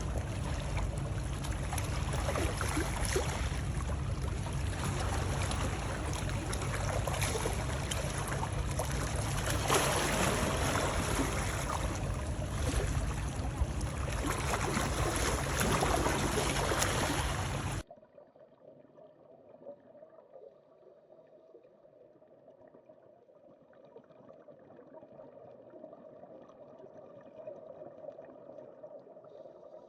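Loud rushing, splashing water noise that cuts off suddenly about 18 seconds in, leaving a much quieter steady watery hiss.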